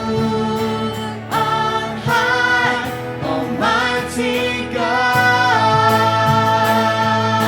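A worship song: singing over instrumental accompaniment, the voices holding long notes and moving to new ones every second or so.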